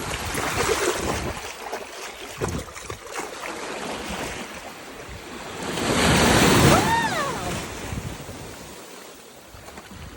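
Atlantic surf washing onto the beach, with wind on the microphone; a wave swells and breaks loudest about six seconds in. A brief pitched call, rising then falling, sounds over the breaking wave.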